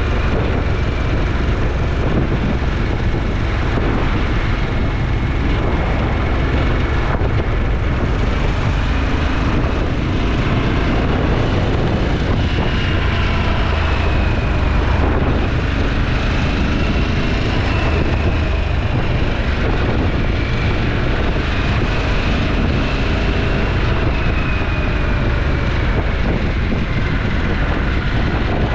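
Twin-cylinder motorcycle engine running steadily on the move under heavy wind rush on the action camera. The engine note slowly rises and falls with speed.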